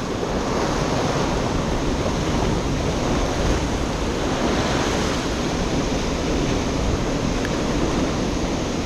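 Ocean surf washing against a rocky shore, a steady rush of water with no separate breaks standing out, and some wind on the microphone.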